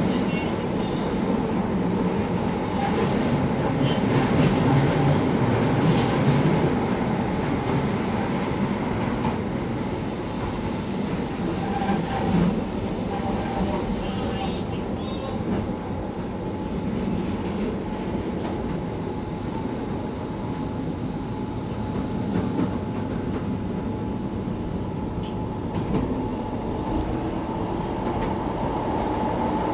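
Keihan 800-series electric train running on the Keishin Line, heard from inside the driver's cab: a continuous rumble of wheels on rail with a steady thin tone above it.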